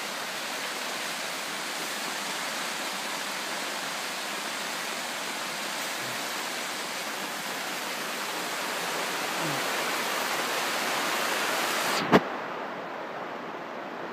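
Steady rain falling, a constant heavy hiss. About twelve seconds in there is a sharp click, after which the hiss sounds duller.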